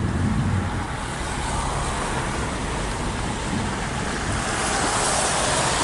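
Car driving through deep floodwater: a rushing, spraying wash of water against the car over a low engine rumble, the rush growing louder as it goes.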